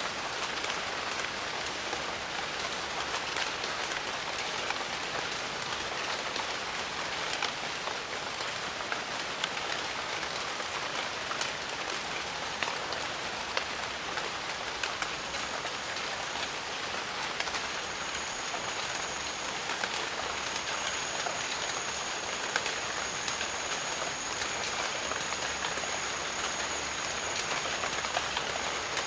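Steady jungle rain falling, with many individual drops ticking through the even hiss. A thin, steady high tone joins about halfway through and holds to the end.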